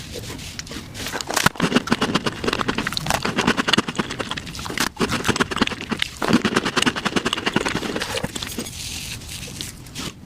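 Eating sounds sped up to five times speed: chewing, smacking and wet mouth noises run together into a dense, fast crackle, with a short pause about halfway through.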